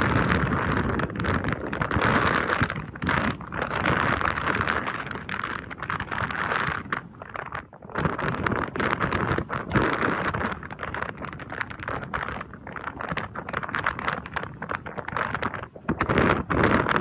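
Gusty wind buffeting the microphone: a loud, rough rush that swells and drops in uneven gusts, with brief lulls.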